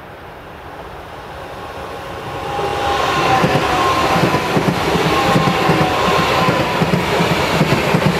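ICE high-speed train approaching and passing, growing steadily louder over the first three seconds and then running loud with rail rumble and clatter. A high whine sinks slowly in pitch as it goes by.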